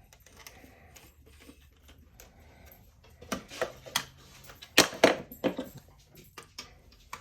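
Hard plastic pieces of a toy saxophone's housing clicking and knocking as they are handled and pressed together. A cluster of sharp clicks comes a little past halfway, the loudest about two-thirds of the way through.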